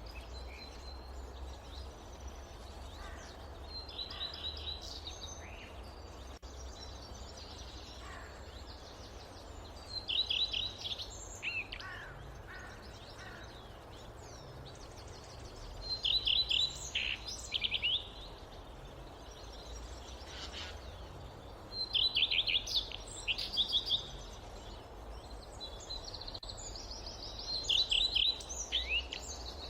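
A songbird in forest singing a short phrase of rapid high notes about every six seconds, five times, over a steady low rumble of wind.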